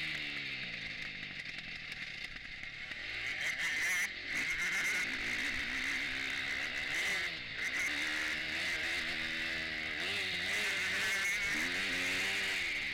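Motocross bike engine heard from the bike's own handlebar camera, revving up and dropping off again and again as the rider works the throttle and gears, with brief dips in engine sound about four and seven and a half seconds in.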